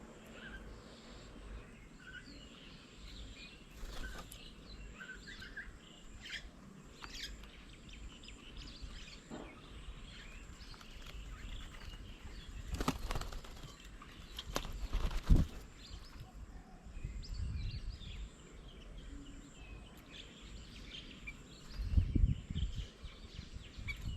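Small birds chirping and calling around a garden bird table, with a few sharp knocks about two-thirds of the way through and low thumps near the end, along with wing flutters.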